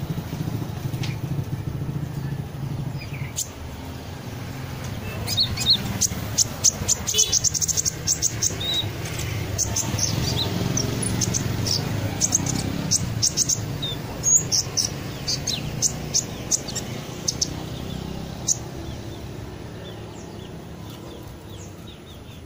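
A bird chirping in runs of short, sharp, high notes over a steady low rumble.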